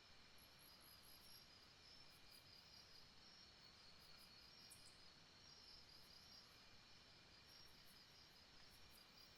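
Faint rainforest night ambience: a chorus of insects chirping in a steady, pulsing trill, with a short rapid series of very high chirps about a second in and occasional high ticks over a soft background hiss.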